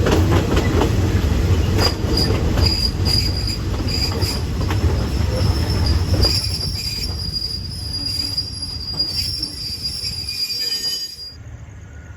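Passenger train running on the rails, heard from on board: heavy rolling rumble with a high, steady squeal of steel wheels on the rail that comes and goes at first, then holds as the rumble eases. Near the end the sound drops suddenly to a much quieter hum.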